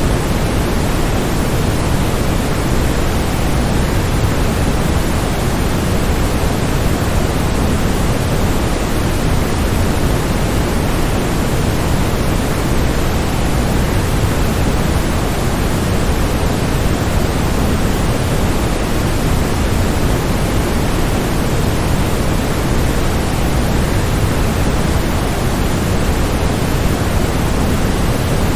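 Waterfall: a steady, even rush of falling water, heaviest in the low end and unchanging throughout.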